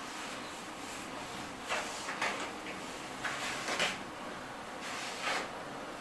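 About five short sliding, scraping sounds, each a fraction of a second long, over a steady hiss.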